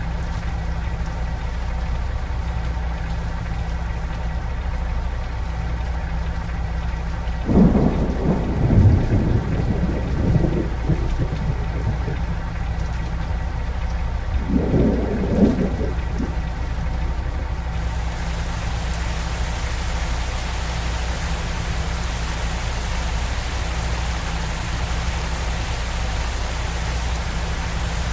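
Steady rain with two rolls of thunder, the first about seven seconds in and a shorter one about fifteen seconds in, over a low steady drone. The rain grows louder about eighteen seconds in.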